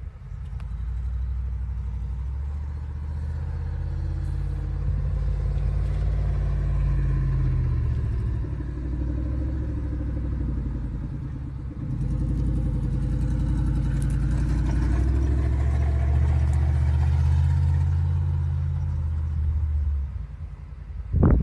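An engine running steadily, with its level dipping briefly about midway and again near the end.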